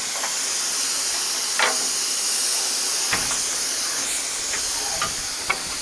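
Steady hiss of compressed air escaping from a semi truck's air system, with a few light knocks.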